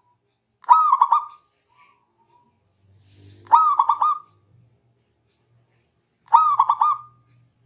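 Zebra dove (perkutut) cooing: three calls about three seconds apart, each a quick, stuttering run of soft notes.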